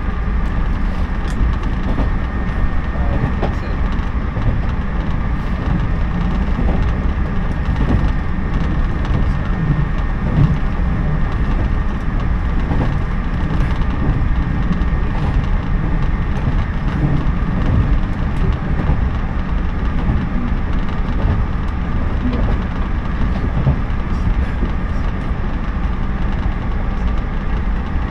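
Steady running noise inside a JNR 113-series electric train car moving at speed: a continuous low rumble of wheels on rails, with a few faint ticks scattered through it.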